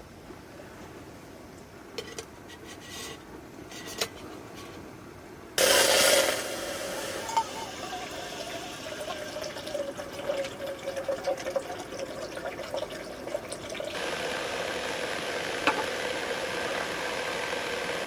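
Gas camping stove: a couple of igniter clicks, then the burner catches with a sudden loud burst a few seconds in and settles into a steady hiss with a faint hum, which turns brighter and a little louder near the end.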